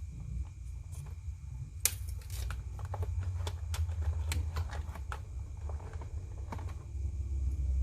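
Handling of toy packaging during an unboxing: a quick, irregular run of sharp clicks and crackles, with one sharp snap about two seconds in, most crowded over the next few seconds, then thinning out.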